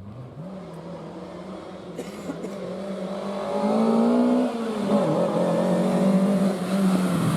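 Rally car engine approaching and growing steadily louder, its revs climbing; the revs dip briefly about four and a half seconds in, then hold high.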